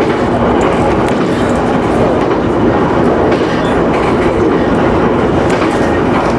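Electric local train on the JR Nikko Line running along the track: a steady rumble of wheels on rails, with faint clicks of rail joints passing under it.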